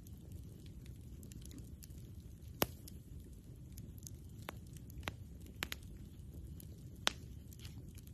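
Campfire burning, wood crackling and popping in irregular sharp snaps over a low steady rumble, with the loudest pops about two and a half seconds in and near the end.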